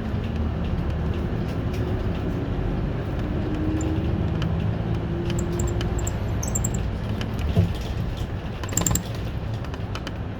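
City bus driving, heard from inside the cabin: a steady low rumble of engine and road noise, with an engine note that rises and falls. A couple of short rattles or knocks come about three-quarters of the way through.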